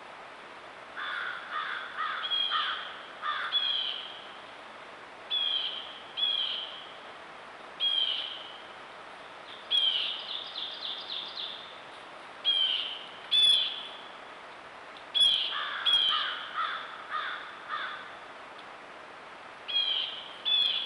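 Birds calling: short loud calls repeated every second or two, often in pairs, with a quick run of about six notes near the middle.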